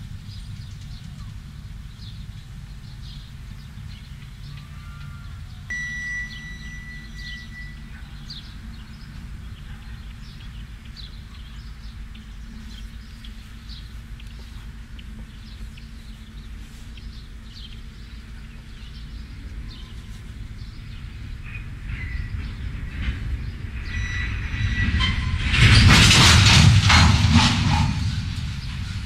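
Freight train on the track: a steady low rumble, with a brief high-pitched squeal about six seconds in. Over the last several seconds it builds to a loud, dense clatter of rolling cars.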